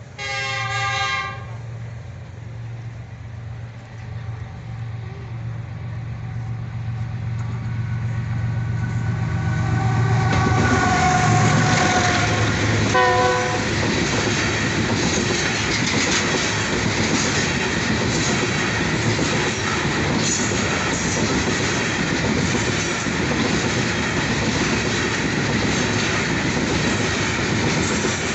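Diesel freight train at a level crossing: a short horn blast, then the locomotive's engine hum grows as it comes closer and it sounds a long horn blast, followed by a brief toot as it reaches the crossing. From about ten seconds in, the covered hopper wagons roll past with a steady loud rumble and the clack of wheels over rail joints.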